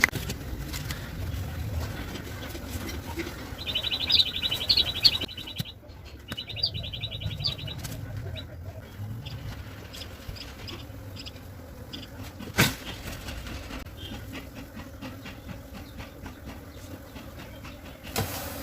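Handling noises as a beehive is opened, with one sharp knock about two-thirds of the way through. A bird trills twice near the start.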